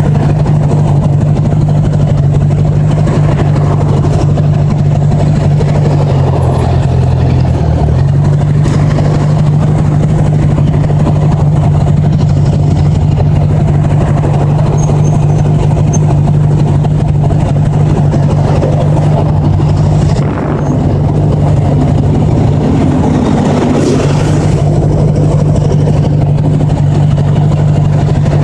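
1980s Honda Gold Wing motorcycle engine running steadily while riding, over a steady rush of noise. The engine note dips and changes about six seconds in, and loudness drops briefly about twenty seconds in, as with a gear change or easing off the throttle.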